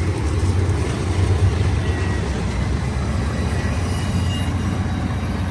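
BNSF intermodal freight train running past at speed, a steady low rumble.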